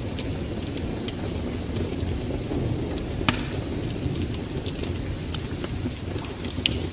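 Wood fire burning in a fireplace: a steady low rumble with scattered sharp crackles and pops, the loudest about three seconds in.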